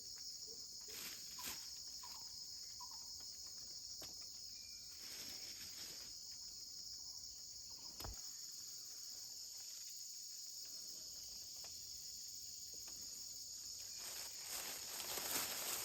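Insects chirring steadily in a high, even drone, with a few soft clicks and rustles; a louder rustling rises near the end.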